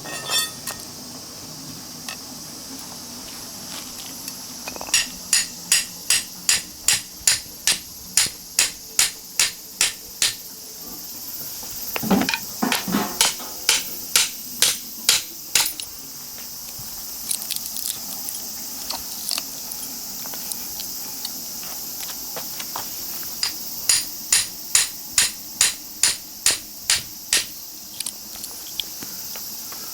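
Hammer blows on metal, a hammer driving a chisel into a small transformer's laminated iron core. They come in runs of sharp, evenly spaced clinks, about three a second, with a duller scraping clatter about twelve seconds in.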